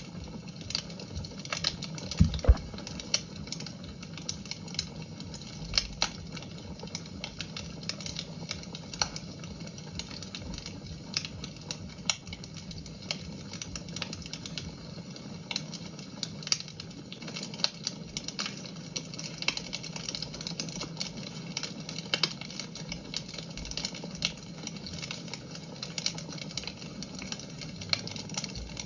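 Wood fire crackling in a fireplace: irregular sharp pops and snaps over a steady low hiss, with one louder pop about two seconds in.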